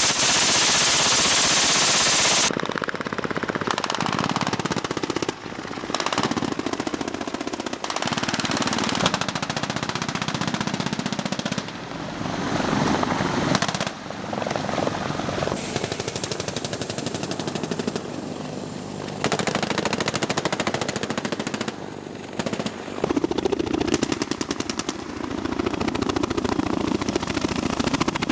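Browning .50-calibre heavy machine gun (M3M / GAU-21) fired from a helicopter in long rapid-fire bursts, across a series of abruptly cut clips. The first couple of seconds are a loud steady rushing noise of wind and rotor wash.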